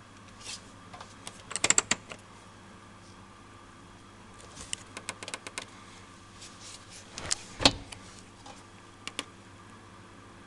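Washing machine being handled: groups of sharp clicks and knocks over a faint steady hum, with a quick run of clicks about halfway through and the loudest knock a little later.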